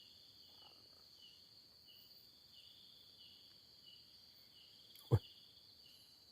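Night chorus of crickets: a steady high trill with a chirp pulsing under it a little under twice a second. A single sharp knock about five seconds in.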